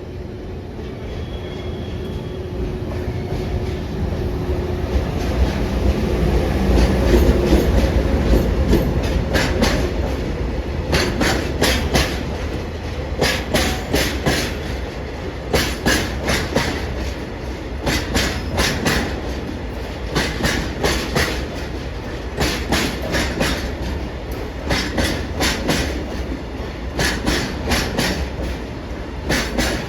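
Freight train of oil tank wagons hauled by an HD300 hybrid shunting locomotive rolling past slowly. A low rumble swells for the first several seconds, then the wagons' wheels click over the rail joints in regular groups.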